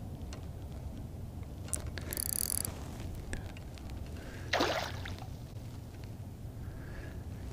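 A hooked chain pickerel being fought and splashing beside a kayak, under a steady low rumble of water and handling. There is a brief high buzz a little after two seconds in and a short splash about four and a half seconds in.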